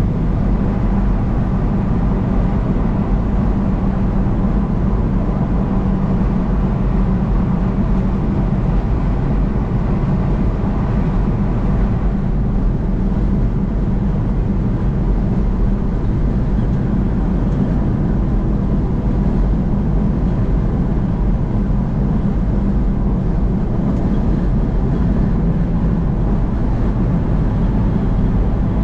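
Steady engine and tyre road noise of a car cruising on a highway: an even low rumble with a faint steady hum.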